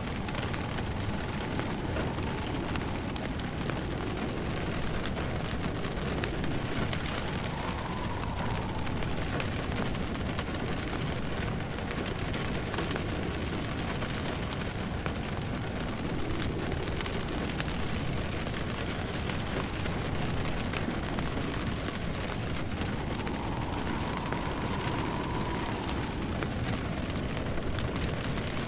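Steady rain pattering, mixed with the crackle of a burning log fire.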